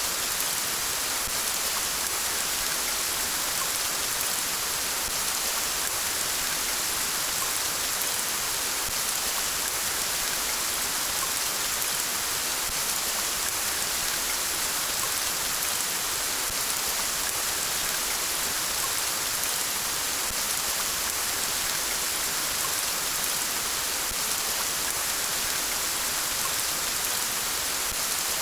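Steady rain falling, an even hiss of many drops, with running river water possibly beneath it.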